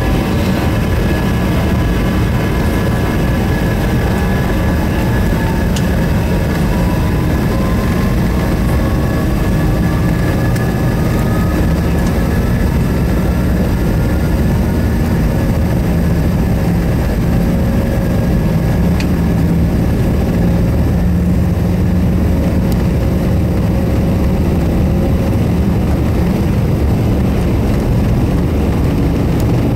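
Cabin noise of a McDonnell Douglas MD-90 during takeoff: its rear-mounted IAE V2500 turbofans running at high thrust, a loud steady rumble with a whining tone that rises in pitch about a quarter of the way through.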